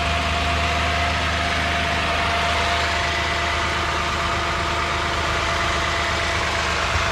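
A 2015 Lexus RX 350's 3.5-litre V6 idling steadily, freshly filled with new oil after an oil change.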